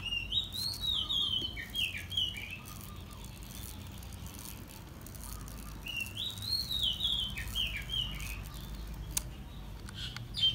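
A songbird singing two short phrases of quick notes that step up and down in pitch, one at the start and another about six seconds in.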